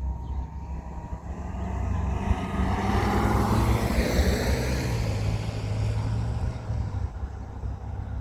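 A vehicle passes by, growing louder for a couple of seconds and then fading, its tone dropping in pitch as it goes past, over a steady low hum.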